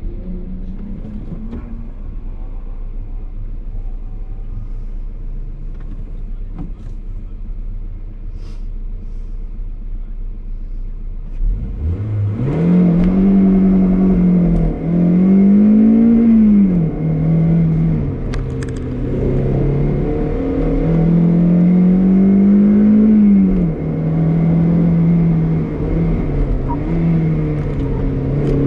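Toyota MR2 Roadster's engine heard from inside the cabin: idling low and steady at the start line for about eleven seconds, then launched hard and revved up through the gears, its pitch climbing and dropping at each gear change, with road and tyre noise beneath.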